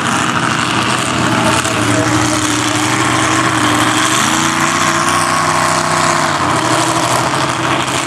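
A vehicle engine running steadily at low revs, its pitch stepping up slightly about four seconds in.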